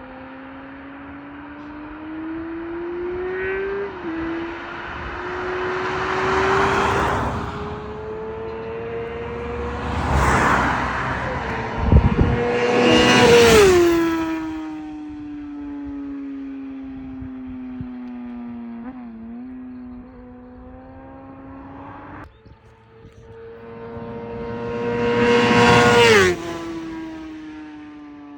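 Motorcycle engine running hard, its pitch climbing slowly under acceleration and then falling away sharply when the throttle is shut, several times over. Loud swells of rushing noise peak with each high point.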